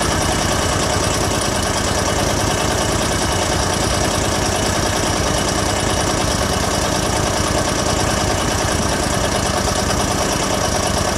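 Engine of an off-road vehicle idling steadily while stopped on a bush trail.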